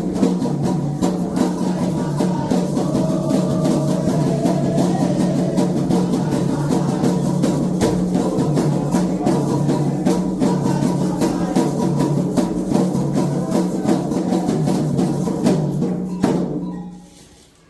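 Candomblé ritual drumming on atabaque hand drums, with singing voices over a fast, steady rhythm. The music stops abruptly about sixteen seconds in.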